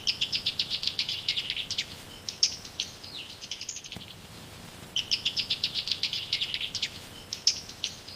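A small bird singing in two bursts of fast, high chirps, each a quick run of about ten notes a second lasting under two seconds and trailing into a few separate notes.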